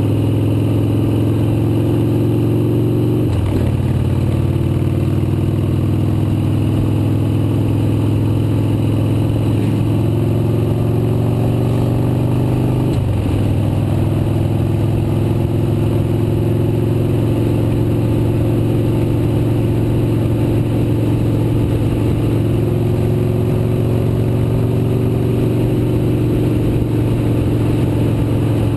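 Motorcycle engine running under way, its pitch climbing slowly and dropping sharply twice, about 3 seconds and 13 seconds in, as at gear changes.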